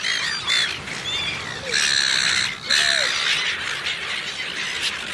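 Birds calling: many short chirping calls, with a loud harsh squawk about two seconds in and another just after three seconds.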